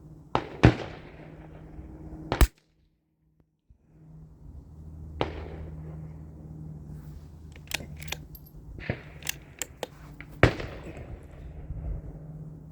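Rifle shots at an outdoor shooting range, a mix of sharp near cracks and quieter, more distant shots. The loudest come about half a second in, just before two and a half seconds, and about ten and a half seconds in, with a scatter of weaker shots between them.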